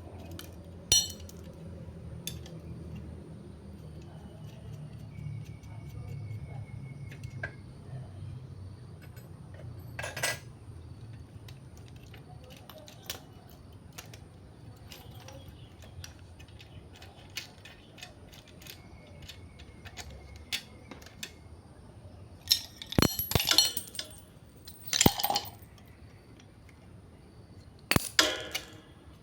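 Scattered metallic clinks and clanks of metal items being handled, single sharp clicks at first and louder bunched clatters in the last third, over a faint low hum that fades about halfway.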